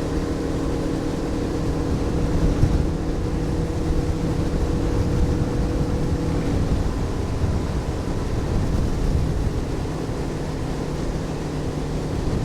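Boat motor running steadily at cruising speed, with rough rushing noise from the moving boat underneath.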